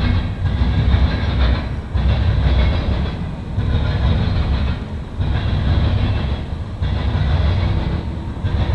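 Norfolk Southern mixed freight train's cars rolling past: a heavy rumble with wheel clatter on the rails that dips briefly about every second and a half as the cars go by.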